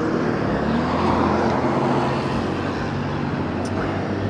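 Street traffic: a motor vehicle running close by with a steady low engine hum, its noise swelling about a second in and then holding steady.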